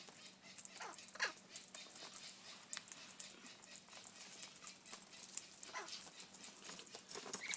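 King parrots giving a few faint, short squeaky calls, about a second in and again near six seconds, over scattered light clicks.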